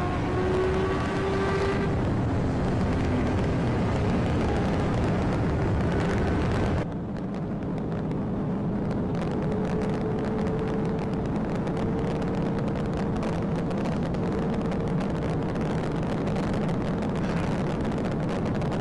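Police car driving at high speed in a pursuit: steady engine, tyre and wind noise with a whine that slowly rises in pitch. The noise drops and turns duller abruptly about seven seconds in.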